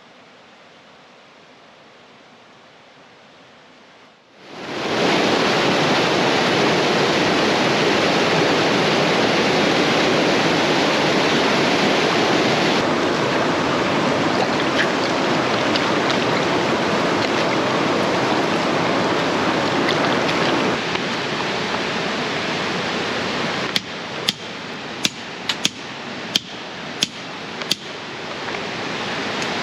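Fast-flowing river rushing in a steady, even noise, faint at first, then suddenly loud after about four seconds. Near the end comes a quick run of about eight sharp pops from the campfire.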